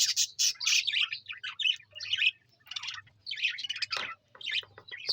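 A flock of budgerigars chattering and chirping together, many short overlapping chirps with brief lulls between bursts.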